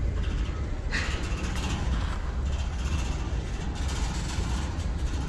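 Freight train boxcars rolling past at a grade crossing: a steady low rumble of steel wheels on the rails, with occasional sharp clanks about a second in and again around four seconds in.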